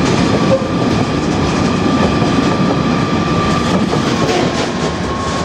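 Freight train of HQAH ballast hopper wagons running past, wheels rumbling on the rails with a thin steady whine above. The whine dies away about four seconds in and the rumble slowly fades as the end of the train goes by.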